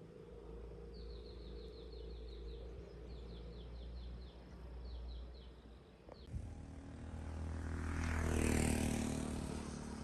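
A small bird calls in quick runs of short, falling chirps over a low rumble. About six seconds in the sound changes: a motor vehicle approaches, passes close at its loudest about two and a half seconds later, and fades.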